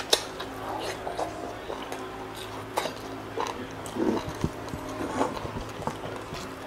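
Close-miked chewing of crispy pata (deep-fried pork knuckle), with wet lip smacks and mouth clicks scattered through, over a steady low hum.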